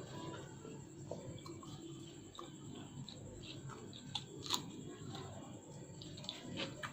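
A person chewing a mouthful of roti with egg tarka, with soft, irregular wet clicks and smacks of the mouth.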